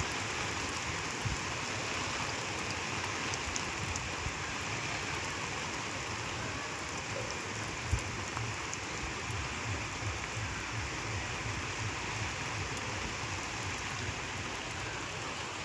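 Steady rain falling, an even hiss with scattered faint drop ticks and one small knock about eight seconds in.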